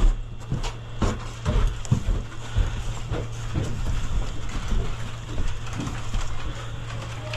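Footsteps on a hard indoor floor with gear rustling: uneven dull thuds about every half second, over a steady low hum.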